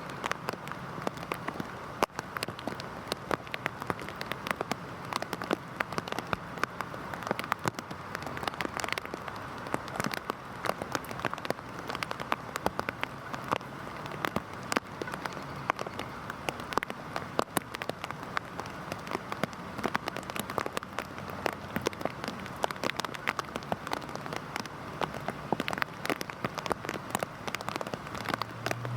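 Heavy rain falling steadily: an even hiss crossed by many sharp, separate drop impacts.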